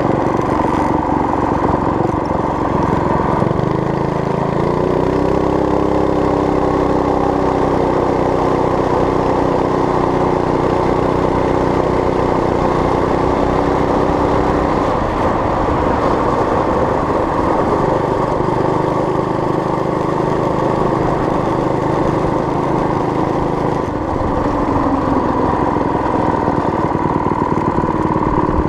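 Homemade mini bike's small gas engine running: its pitch rises about four seconds in, holds steady for about ten seconds and then drops back to a lower, steady running speed.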